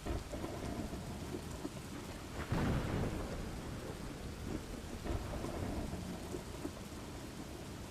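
Thunderstorm ambience: steady rain, with a louder rumble of thunder about two and a half seconds in.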